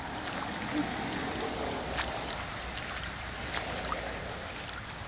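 Rainwater runoff flowing through a flooded yard: a steady rush of running water with small splashes and ticks.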